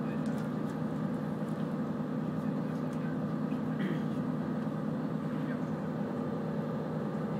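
Steady running noise inside a moving passenger train: an even low rumble with a constant hum.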